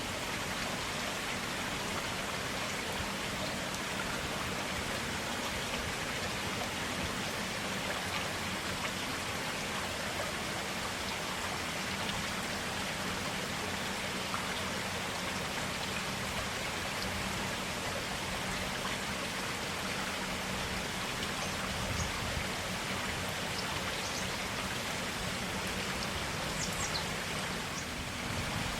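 Clear water running steadily in a forest stream, an even rushing hiss.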